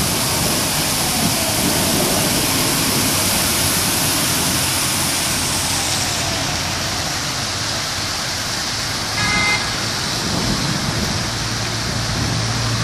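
Rain falling steadily, with a short pitched tone about nine seconds in.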